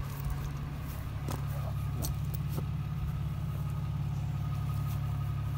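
Cummins diesel engine of a 4x4 pickup running steadily with a low drone while the truck pulls on a chain hooked to a tree to uproot it.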